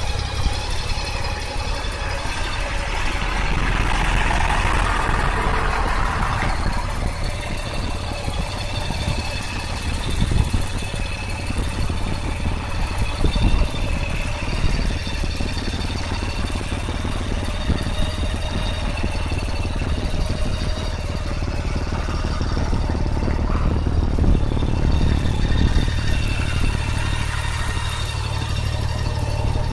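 Motorcycle engine running steadily, at idle or low revs, with no clear revving.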